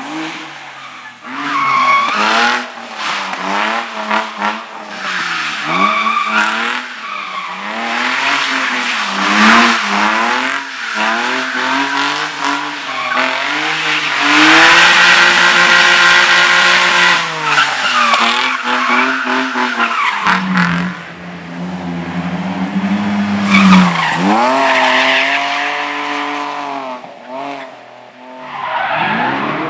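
Competition car engine worked hard through a slalom course, revs repeatedly dropping and climbing again as the driver lifts and gets back on the throttle. It holds high revs for a few seconds mid-way, drops lower, then picks up again, with tyre squeal as the car is thrown through the turns.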